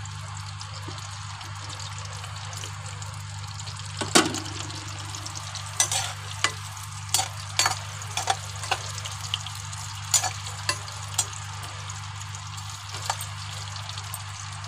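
Green capsicum pieces sizzling in hot oil in a kadhai. From about four seconds in, a spatula stirs them, giving a run of sharp clicks and scrapes against the pan; the first and loudest knock makes the pan ring briefly. A steady low hum runs underneath.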